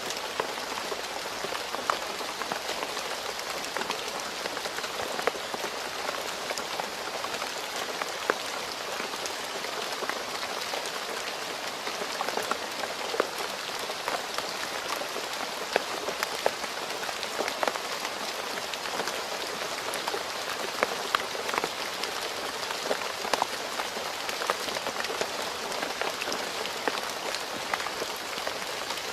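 Steady rain falling on a road surface, a continuous hiss dotted with many sharp individual drop impacts.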